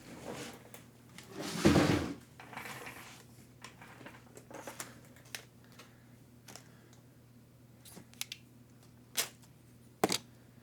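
Hands sorting small parts at a workbench: a brief rustle about a second and a half in, then scattered light clicks and taps of small hard parts, with two sharper clicks near the end.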